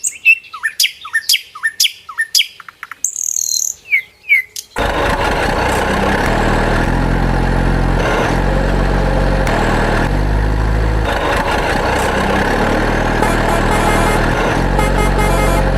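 A bird chirping in quick, falling calls. About five seconds in, a loud truck engine sound starts abruptly and runs steadily, its pitch shifting up and down every second or two.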